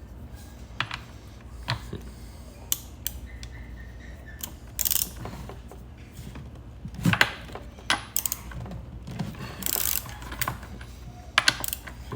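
Irregular clicks, clatters and short scraping of screwdrivers and saw parts being handled while a Stihl MS 290 chainsaw is taken apart, over a low steady hum.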